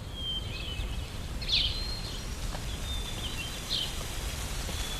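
Scattered short bird chirps, one every second or so, over a steady low background rumble.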